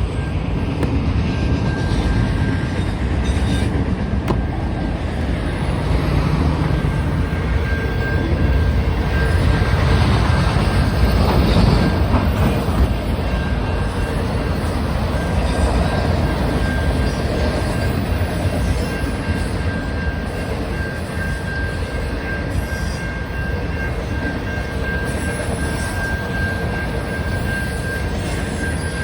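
Norfolk Southern freight train rolling past: a steady rumble of wheels on rail with a thin, steady squeal throughout, loudest about ten to twelve seconds in.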